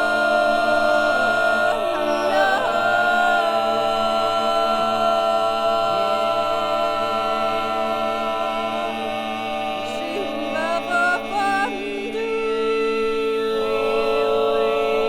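Several voices singing a cappella, holding long overlapping notes, with a few sliding notes about two seconds in and again around ten seconds in.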